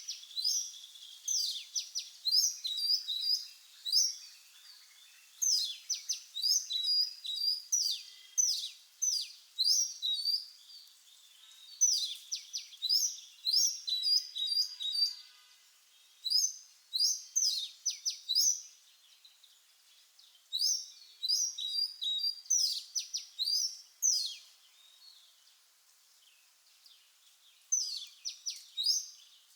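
Oriental magpie-robin singing: phrases of quick, sharp whistled notes repeated with short pauses between them, and a longer pause near the end.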